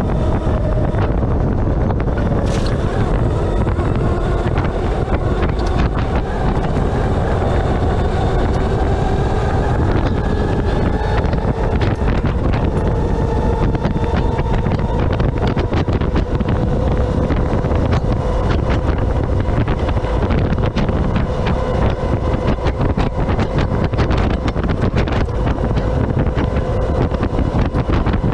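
Electric Baja off-road car driving on a dirt autocross course: heavy wind buffeting on the microphone over a low rumble. The electric drive's whine rises in pitch through the first half, then holds steady, with frequent clicks and knocks throughout.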